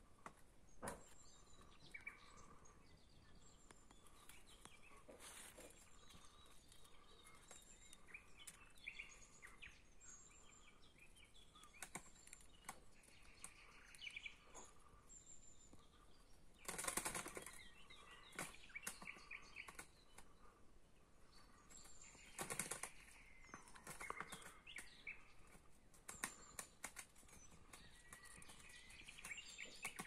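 Faint chirping of birds in the treetops with short scattered calls, and two louder bursts of wing flapping, one about halfway through and another some five seconds later.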